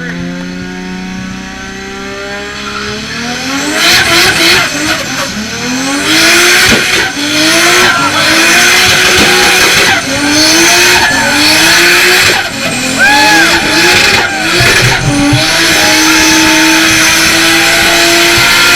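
Toyota Supra Mk4's turbocharged inline-six engine accelerating hard. The revs climb over the first few seconds, then it pulls through a run of gear changes, the pitch rising and dropping back every couple of seconds, loud with a rushing noise over the engine. Near the end the engine holds at a steadier pitch.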